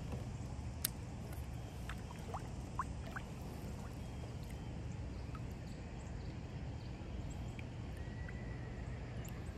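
Quiet outdoor ambience on the water: a steady low rumble with a few faint clicks and several brief rising chirps, likely small birds.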